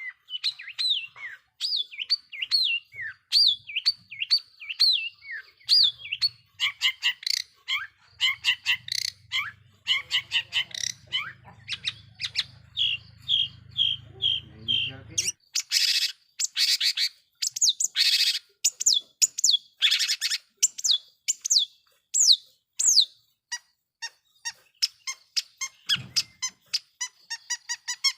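Long-tailed shrike (cendet) singing a fast, varied song of sharp chirps and downslurred whistles. About halfway through come several loud, harsh rasping notes, then the quick chirping runs on.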